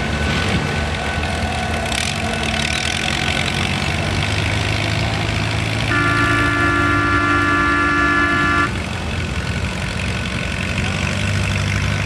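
Tractor engines running steadily at a tractor pull, with a horn sounding once, a held chord of several pitches lasting close to three seconds, about six seconds in.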